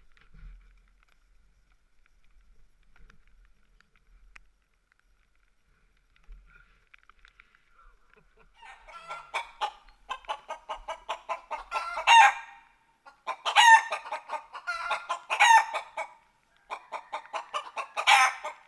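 Chickens clucking in a rapid run of short calls, with several louder squawking calls among them. This begins after about eight seconds of near quiet.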